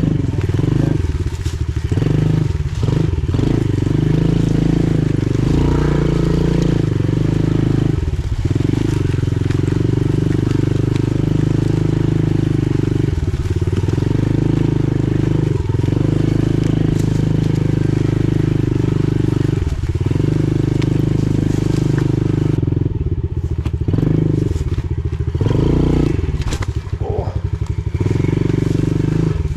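Pit bike engine running as it is ridden, held at a steady pitch, with brief drops in revs every few seconds as the throttle is rolled off and opened again.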